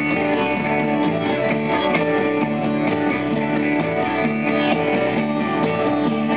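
Live band playing an instrumental passage: strummed guitars over a moving bass line, with no singing.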